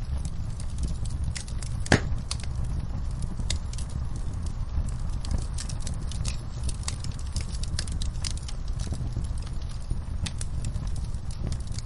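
Wood fire crackling in a fireplace, with frequent small pops and one louder pop about two seconds in, over a steady low rumble and rain.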